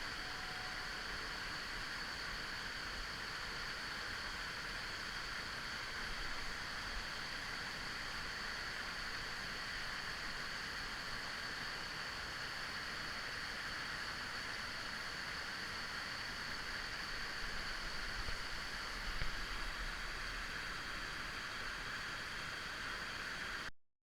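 Mountain stream water rushing steadily, an even hiss with no pauses, which cuts off suddenly near the end.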